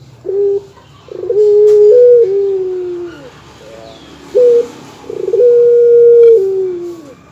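Dove cooing in two phrases: each a short coo followed by a long drawn-out coo held steady and falling in pitch at its end.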